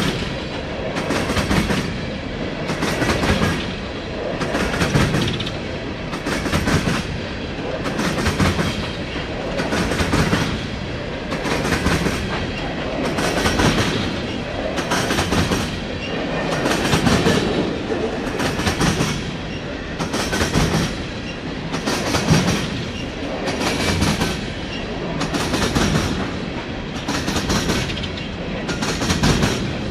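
Empty coal train's cars rolling past, the wheels clattering over the rail in a steady rhythm that swells about every second and a half to two seconds as each car goes by.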